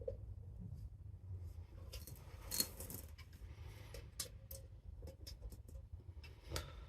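Small clicks and metallic clinks of M1 helmet hardware being handled and fitted, with a louder rattle about two and a half seconds in, over a low steady hum.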